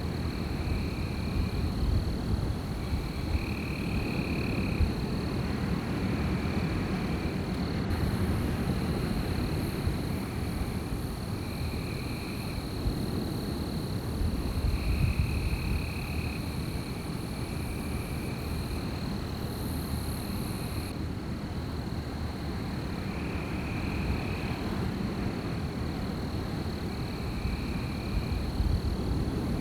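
Night outdoor ambience: a steady low wind rumble under a constant high insect-like drone, with short calls repeating every second or two. A thin high hiss joins about eight seconds in and stops about twenty-one seconds in.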